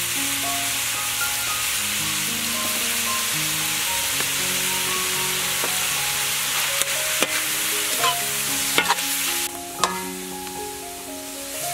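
Shrimp, egg and snake gourd sizzling as they are stir-fried in a hot wok. In the second half a metal spatula strikes and scrapes the wok a few times with sharp clinks. The sizzle drops off suddenly near the end.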